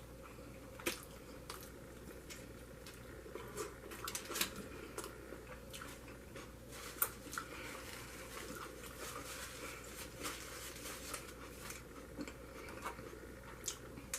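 A person chewing food close to the microphone: soft, scattered wet mouth clicks and small crunches, with a sharper click about a second in and a few more around the fourth and seventh seconds.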